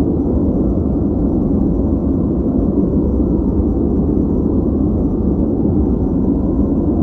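Steady synthetic noise played as a focus background: an even, deep rushing sound with little treble, holding the same level throughout.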